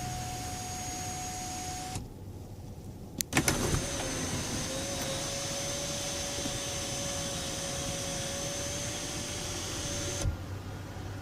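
A small electric motor whining steadily at one pitch for about six seconds, starting after a few clicks and stopping with a thump.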